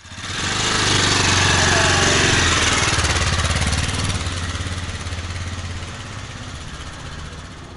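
AJP PR7 single-cylinder motorcycle engine running under a heavy rush of wind noise. The sound fades in quickly at the start and eases off gradually over the second half.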